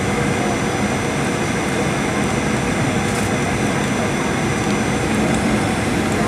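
Airliner cabin noise inside a Boeing 737-800: a steady roar of airflow and engines, with faint steady whining tones over it.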